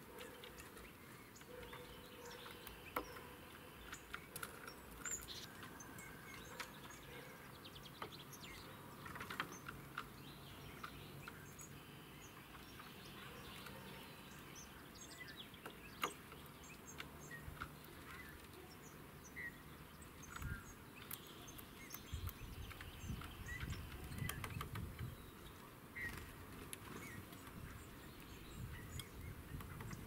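Small birds chirping faintly now and then, with scattered sharp clicks and a low rumble for a few seconds in the second half.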